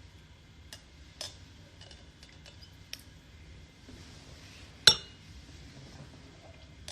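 A few light clicks and taps, then one sharp clink of hard objects about five seconds in that rings briefly.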